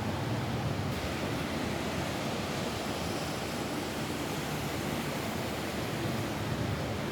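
Steady rain falling on a roof, an even wash of noise with a low rumble underneath and no single drops standing out.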